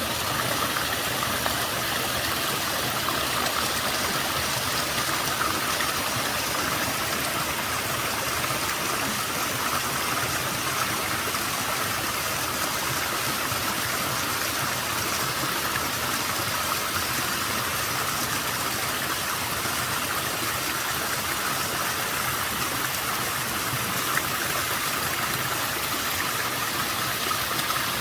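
Small waterfall with a fairly low flow of water, falling and splashing in a steady, even rush.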